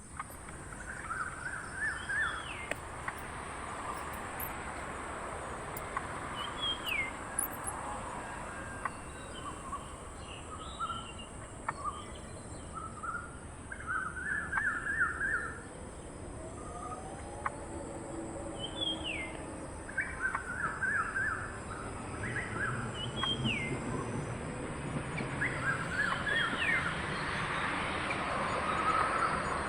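Birds calling: short, rapid trills alternate with single whistled notes that slur downward, repeating every few seconds over a steady background hiss.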